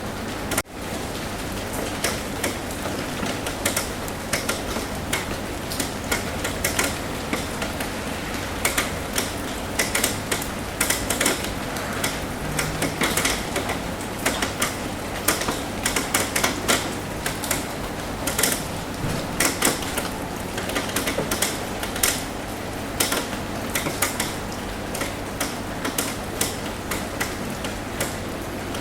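Raindrops tapping on a roof: a steady hiss of rain with many irregular, sharp taps, some dense clusters of them, and a brief dropout just under a second in.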